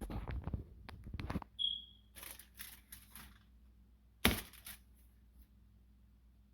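Dishes and utensils being handled while food is plated: a run of clattering knocks, a short high squeak, scattered lighter knocks, and one sharp knock about four seconds in.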